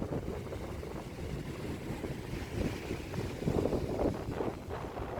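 Wind buffeting the microphone while riding a bike, a rough rumbling rush that swells louder about three and a half seconds in.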